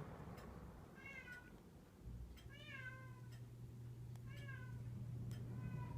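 A cat meowing four times, each meow short and falling in pitch. A faint steady low hum comes in about two seconds in.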